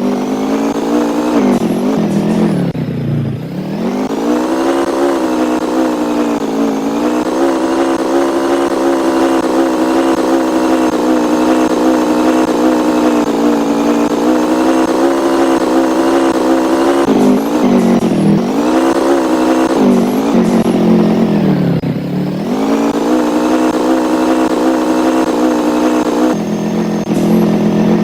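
An engine running steadily, its pitch dropping and rising again a few times, as when slowing down and speeding back up.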